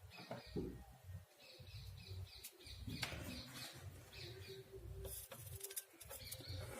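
Faint high chirps repeating every second or so over a low hum, with a few small sharp clicks and rustles from wires being handled.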